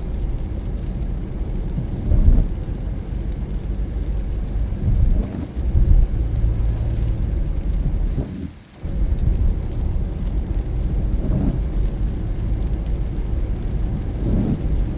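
A car driving on a wet road: a steady low rumble of road and engine noise, which drops out sharply for about half a second a little past halfway.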